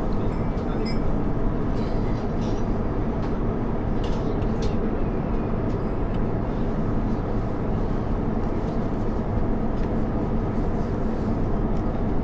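Steady cabin noise of an Airbus A350-900 airliner in cruise: an even low rumble of airflow and engines, with a couple of faint clicks about four seconds in.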